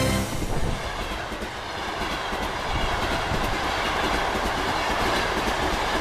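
A train running on the rails: a steady noise of wheels on track, swelling slightly in the middle.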